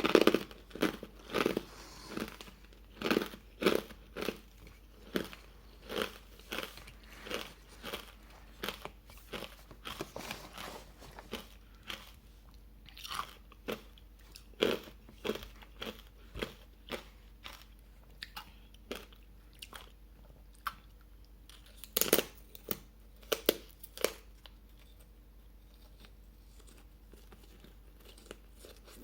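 Close-up crunching and chewing of hard ice, sharp crunches following one another quickly at first, then more spaced out, with a loud burst of crunches a little past two-thirds through and only a few near the end.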